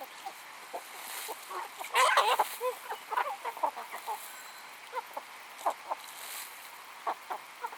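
Chickens clucking in short, scattered calls, with a louder burst of calls about two seconds in.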